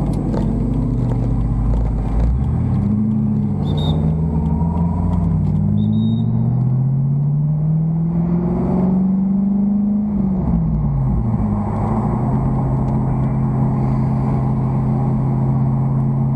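A car engine running, its pitch climbing slowly over several seconds as it is revved up, then falling back about ten seconds in to a steady, even running.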